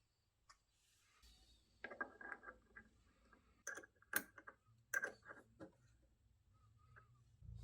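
Hand work on the fan's parts: a quick cluster of sharp clicks and knocks about two seconds in, then several single sharp clicks a second or so apart, as parts and tools are handled and fitted. A low hum comes up near the end.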